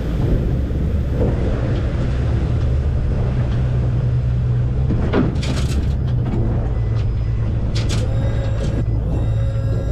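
Boat motor running steadily with a low hum, with a few sharp knocks about halfway through. Held music tones come in near the end.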